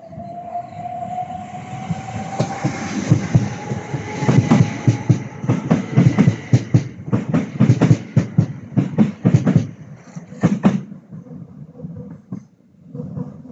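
Class 375 Electrostar electric multiple unit pulling away: a rising motor whine over the first few seconds, then a fast run of clickety-clack as its wheels cross the rail joints, dying away about eleven seconds in.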